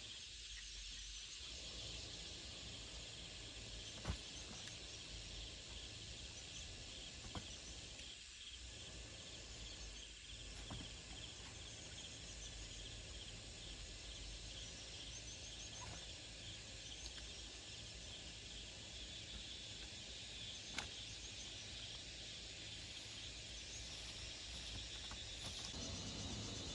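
Steady outdoor ambience: an even, high chirring hiss with a low rumble beneath, broken by a few sharp clicks.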